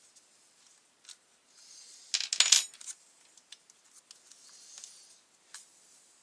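Small metal parts clinking and rattling together in a brief jingle about two seconds in, with light scattered clicks of handling before and after.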